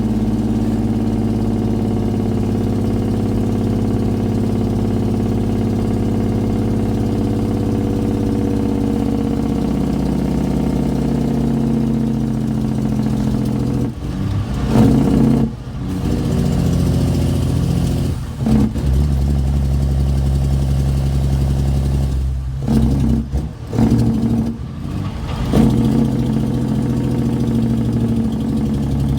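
Kenworth truck's diesel engine running through straight pipes, steady at first, then its pitch falls gradually. From about halfway through it breaks into a run of uneven surges with several short drop-outs.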